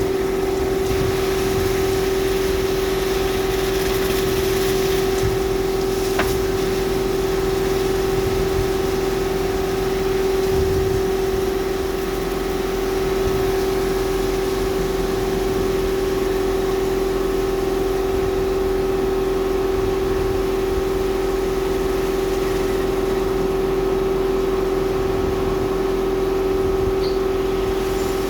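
Washtec SoftCare Pro rollover car wash machinery running steadily: a constant motor hum with a continuous hiss.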